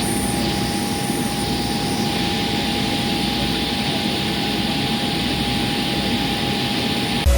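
Boeing 737-800's CFM56-7B jet engines running steadily, heard inside the passenger cabin: an even rush with a steady whine that neither rises nor falls.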